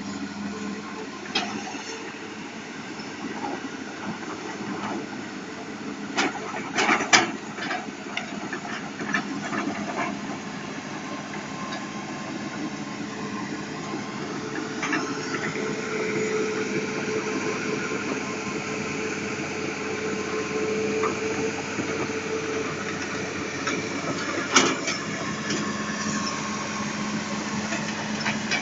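Hitachi Zaxis200 excavator's Isuzu 6BG inline six-cylinder diesel engine running steadily. A few sharp metallic knocks come through, most strongly about seven seconds in and again near the end, and a higher whine joins about halfway.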